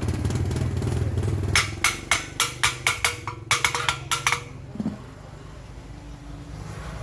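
A low rumble, then about a dozen sharp knocks in quick succession, roughly four or five a second, stopping after nearly three seconds.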